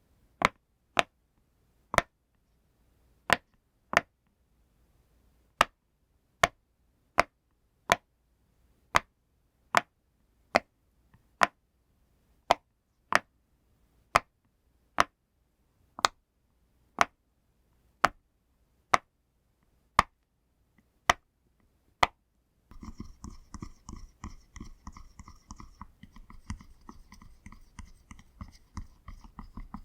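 Pop toy being pressed, one sharp pop at a time, roughly one or two a second. About two thirds of the way in the pops stop and a dense, scratchy crackling takes over.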